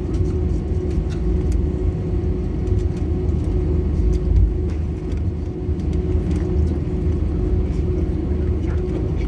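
Steady low rumble of an Airbus A320's engines and airflow heard inside the passenger cabin, with a steady hum running under it.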